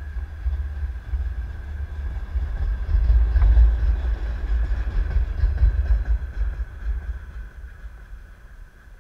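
Freight train of tank cars and a boxcar rolling past at close range: a heavy rumble of wheels on rail with a steady high ringing over it, loudest about three to four seconds in, then fading toward the end as the tail of the train goes by.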